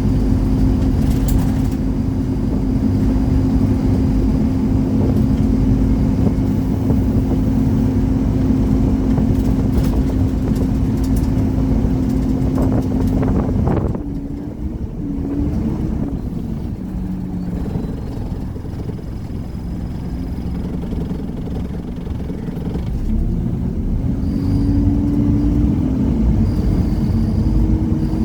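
Scania Omnicity single-deck bus's 230 hp diesel engine running under way. The engine note holds steady, then drops and wanders about halfway through as the bus eases off and changes gear. Near the end the note rises steadily as it pulls away again.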